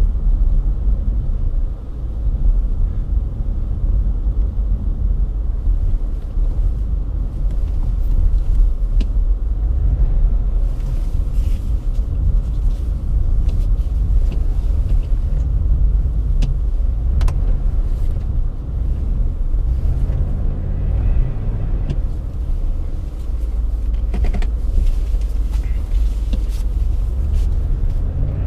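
A car's engine running with a steady low rumble, likely the 2009 Chevrolet Impala SS, with a few light clicks and knocks scattered through it.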